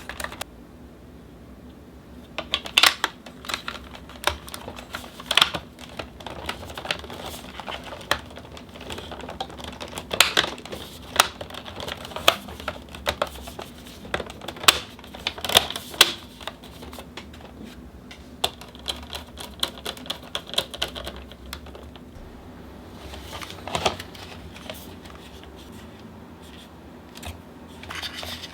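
Irregular clicks, taps and knocks of hard plastic fan parts being handled and fitted, with some scraping, from the Dyson AM06 fan's casing under disassembly and cleaning.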